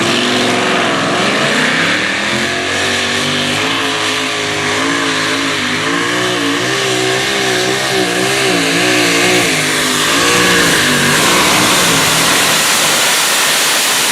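Competition pulling tractor's engine running hard through a pull, its pitch wavering up and down as the revs rise and fall, with heavy exhaust noise over it.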